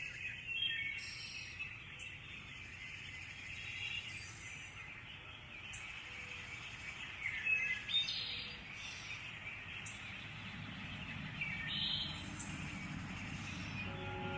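Forest birds chirping, scattered short high calls over a faint steady background hiss.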